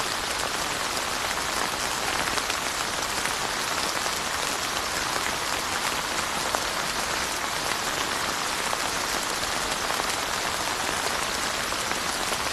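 Steady rain falling on surfaces, a dense even patter of many fine drops with no let-up.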